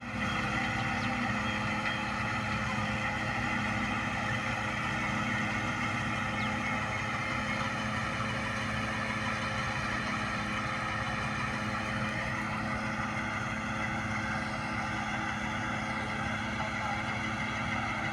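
Tractor engine running steadily at a constant speed, with a slight dip in pitch about two thirds of the way through.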